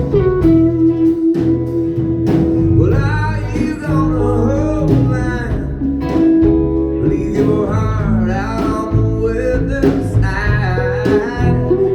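Live band music: an instrumental break of a slow country-blues song, with a lead guitar playing bending notes over the band's steady beat.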